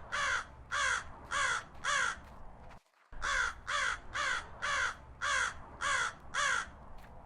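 A crow cawing: a run of harsh caws about two a second, a brief break about three seconds in, then another run of caws.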